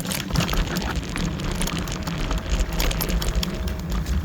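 Kaabo Wolf Warrior electric scooter riding over rough, stony ground: a dense irregular crackle and rattle of tyres and frame over loose stones above a steady low rumble. A faint steady motor whine comes in for a couple of seconds in the second half.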